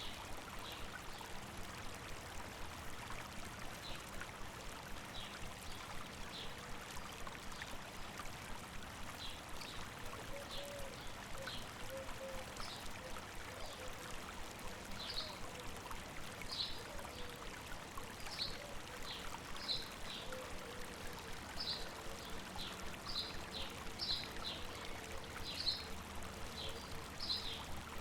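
A river babbling steadily over rocks, with a bird giving short high chirps now and then that come more often in the second half.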